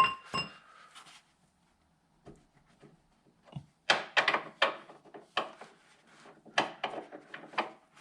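Metal tools working on the front suspension's camber adjuster: a sharp ringing metallic clink, then after a pause a series of about eight sharp knocks and clicks.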